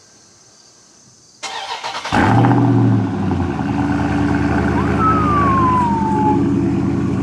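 Car engine cold start: the starter cranks briefly about a second and a half in, the engine catches about two seconds in and flares up, then settles into a steady fast idle.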